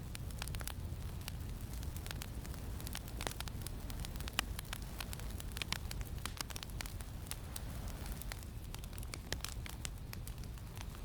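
Wood campfire crackling, with frequent irregular sharp pops, over a steady low rumble of wind.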